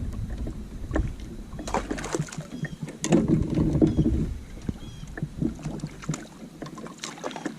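Knocks, clicks and water noise on a fishing kayak, with a louder noisy stretch about three seconds in, as a big blue catfish is fought on the line.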